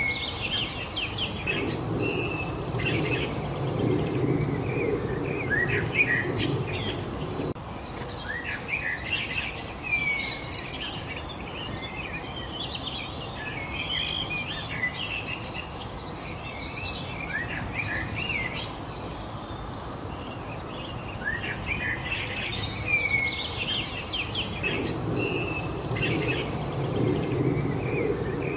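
Several songbirds chirping and singing over one another in quick, overlapping calls and trills, over a steady outdoor background hiss. A low rumble in the background stops suddenly a few seconds in and comes back near the end.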